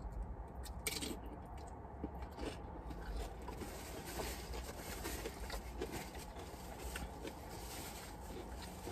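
A person chewing a mouthful of sub sandwich: soft, irregular mouth clicks and smacks.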